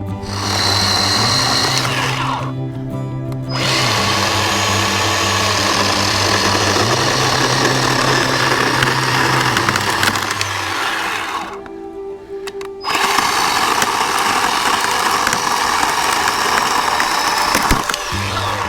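Bauer 10-inch 20-volt battery chainsaw running and cutting dry dead locust wood, stopping briefly twice, with background music underneath.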